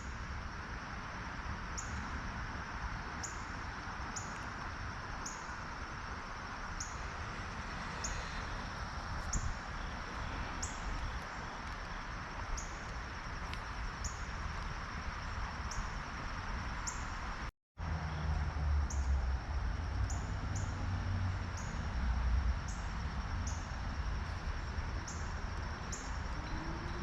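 Creek-side ambience: a steady rush of flowing creek water under a constant high insect hum, with a short high chirp repeating about once a second. The sound cuts out briefly about two-thirds of the way through, and low rumbling joins in after that.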